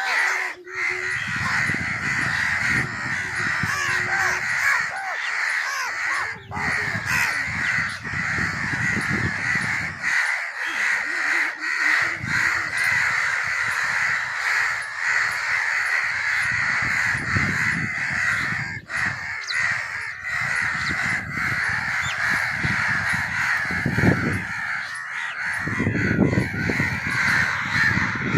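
A flock of crows cawing, many harsh calls overlapping into a dense, continuous din, with a low rumble underneath at times.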